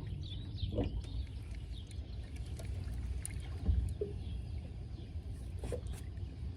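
Small waves lapping against a fishing boat's hull over a low rumble, with a few light knocks on the boat.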